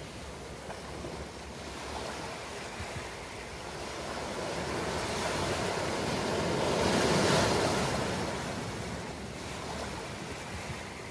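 Ocean waves: surf washing ashore, building over several seconds to a crash of a breaking wave about seven seconds in, then easing back into a steady hiss of wash.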